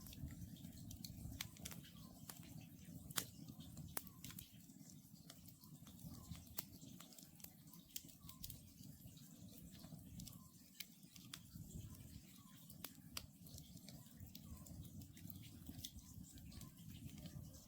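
Wood campfire burning with faint, irregular crackles and snaps over a low steady rumble, one snap standing out about three seconds in. A faint, short call of an Oriental scops owl repeats now and then.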